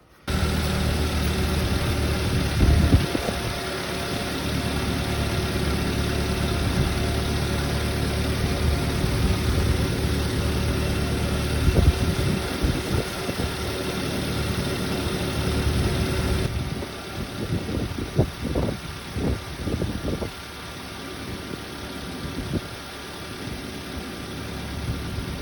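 Subaru Sambar truck's small 660 cc four-cylinder engine idling steadily. Near the end it drops quieter and a few short knocks and handling noises are heard over it.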